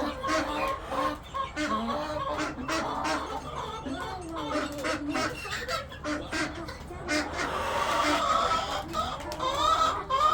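A flock of hens clucking and calling together, many short overlapping calls, with one louder drawn-out call near the end.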